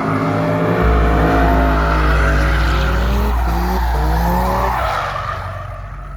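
Drift car engine revving up and down while the tyres squeal in a slide. The sound fades away from about five seconds in.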